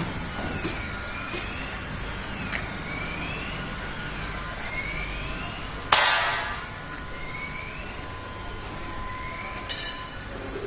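A heavy truck's engine idling, with a loud, sharp burst about six seconds in.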